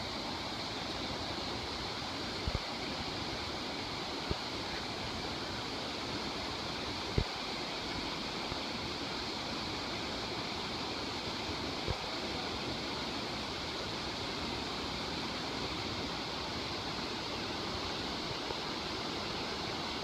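Waterfall water rushing steadily, broken by a few short, sharp knocks; the loudest knock comes about seven seconds in.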